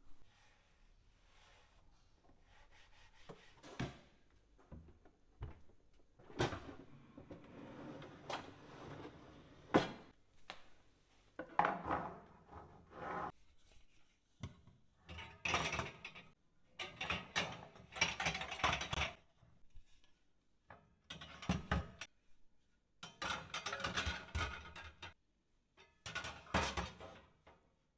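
Household items being handled and put away: scattered knocks, clicks and rubbing in short bursts, with brief pauses between.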